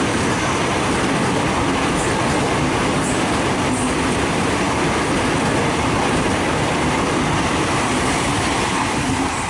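Sydney Trains Waratah electric passenger train passing through the station at speed, a loud steady rush of wheels on rail as it runs over the crossover points toward the centre track.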